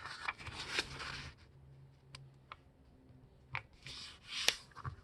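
A sheet of letter-size paper being folded by hand: the paper rustles and slides in two spells, with a few short sharp ticks of paper in between.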